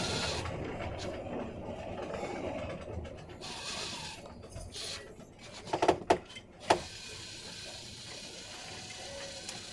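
Wind gusting over the microphone in about 20 knots of breeze, as a noisy rush that rises and falls. A few sharp knocks come a little past the middle.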